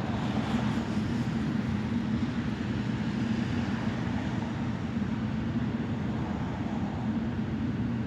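Steady low rumble of vehicle traffic, even throughout with no distinct passes or impacts.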